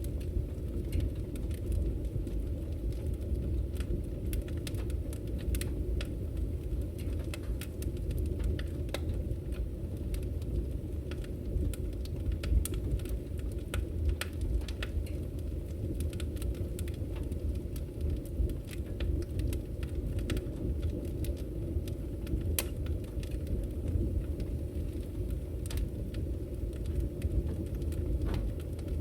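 Wood fire crackling in a fireplace: a steady low rumble of burning logs with frequent small, irregular pops and snaps.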